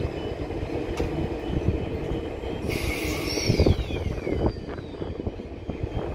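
Electric suburban train approaching along the track, with a steady rumble and hum. About three seconds in there is a brief hiss and a high squeal falling in pitch.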